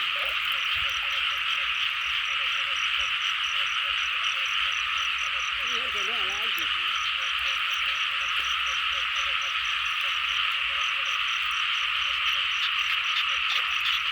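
Dense chorus of frogs calling, with low croaks repeating and a fast, regular high pulsing running through it.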